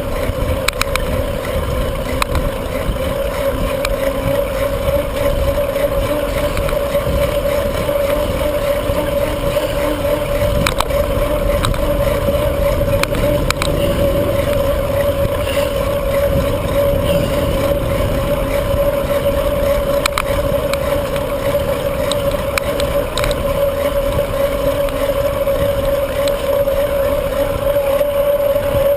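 Wind rushing over the microphone of a bicycle being ridden, with road and tyre noise, a steady hum, and scattered small clicks.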